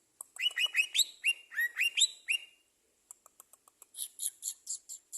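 Small songbird singing: a run of quick rising whistled notes, then after a short pause a rapid string of high, sharp chirps, about four or five a second.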